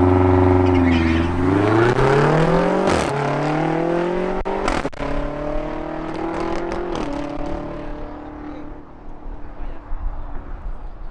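BMW M240i xDrive's turbocharged straight-six and BMW X5M's twin-turbo V8 launching off the drag-strip start line at full throttle, rising in pitch through a couple of gear changes. The sound fades as the cars pull away down the track.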